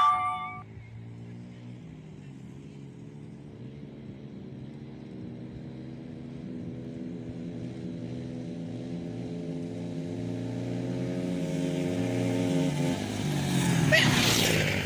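Small-engine go-kart or dirt bike running and drawing closer, its engine growing steadily louder over about thirteen seconds, then a brief loud rushing noise near the end as it comes close.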